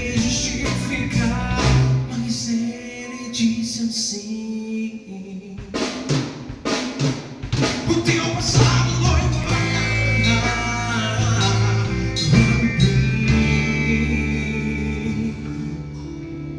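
A band playing an instrumental passage of a gospel song, with a drum kit's snare and bass drum hits standing out over sustained instrument tones.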